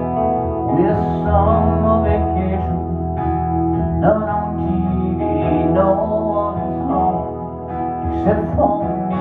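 Live acoustic guitar music: chords strummed hard about every four seconds, ringing on in between.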